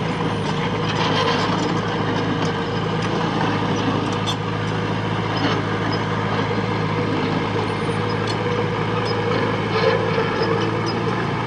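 Diesel engine of heavy earthmoving machinery running steadily, with scattered metallic clanks and knocks.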